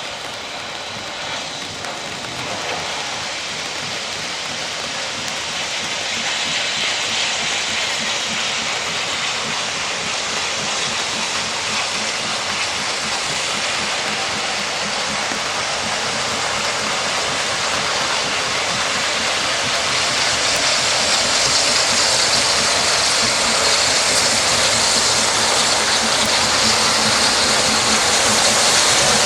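Steam train making a steady rushing noise that grows gradually louder, with no distinct exhaust beats.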